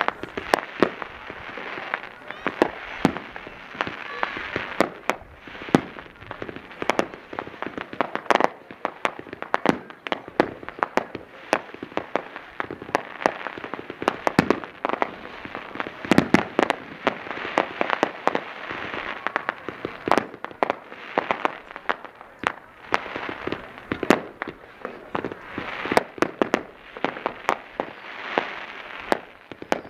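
Aerial fireworks bursting in quick succession, a dense run of sharp bangs and cracks one after another. The loudest bang comes about halfway through.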